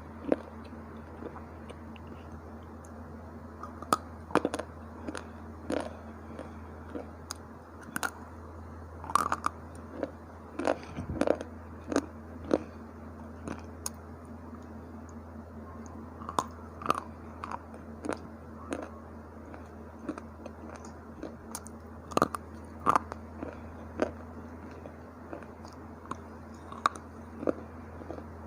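Dry, hard slate bar chips being bitten and chewed close to the microphone: irregular sharp crunches, sometimes in quick clusters of two or three.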